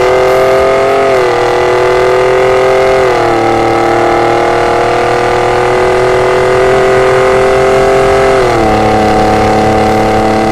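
Ford Raptor's twin-turbo EcoBoost V6 running through a Borla aftermarket exhaust at a steady drone. The pitch drops three times, at about one second, three seconds and eight and a half seconds in, like upshifts while driving.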